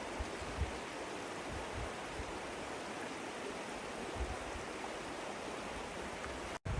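Steady rush of flowing river water, with a few faint low knocks.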